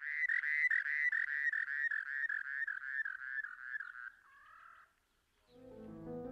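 An animal calling a rapid run of repeated notes, about four a second, growing fainter after about three seconds and ending in a short wavering note. Music with low held tones comes in near the end.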